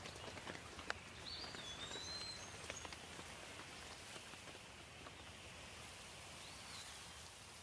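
Soft, steady water hiss with scattered drops pattering, most of them in the first few seconds. A bird chirps a couple of times, briefly in the middle and once more near the end.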